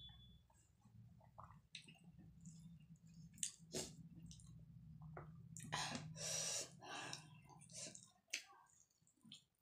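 Chewing and lip smacks while eating rice and fried fish by hand, with the soft squish of fingers mixing rice and dal; scattered short smacks and clicks, loudest in a run about six seconds in. A low steady hum underneath drops away near the end.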